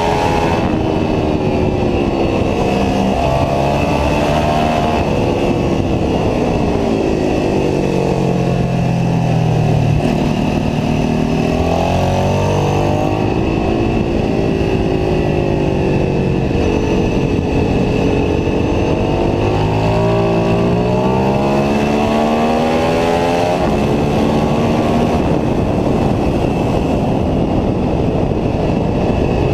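Ducati 749S superbike's V-twin engine heard onboard, its pitch climbing and dropping several times as the revs rise and fall under acceleration and braking.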